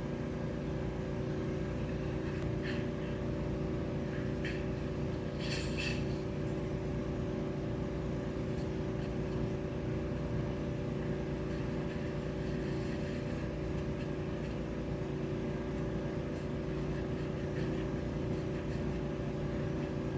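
Steady machine hum with several constant tones, unchanging throughout, with a few faint high ticks in the first few seconds.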